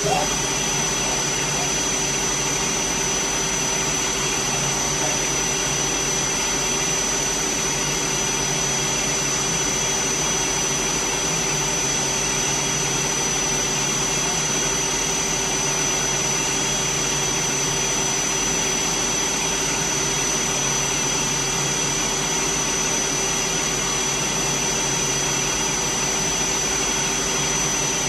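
DMG Gildemeister CTX-510 CNC turning center running: a steady machine noise with a constant hum and a high whine.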